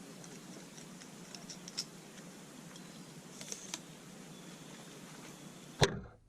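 Wood campfire crackling: scattered faint pops over a steady low hiss. Near the end comes one loud knock, and then the sound cuts off suddenly.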